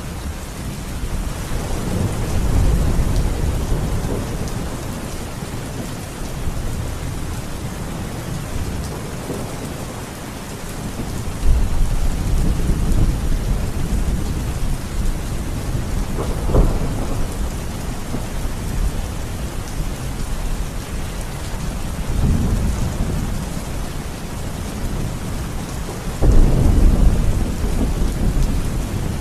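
Steady rain with rolling thunder. Deep rumbles swell and fade several times, with a sharper clap about two-thirds of the way in and a loud rumble starting suddenly near the end.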